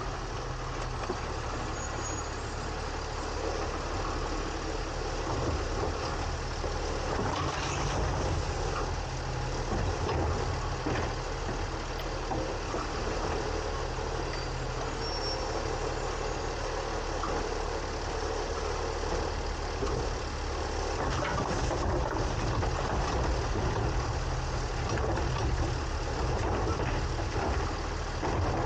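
A side-loading garbage truck's diesel engine running steadily, heard from inside its trash hopper, with a mechanical clatter over it and a few scattered knocks.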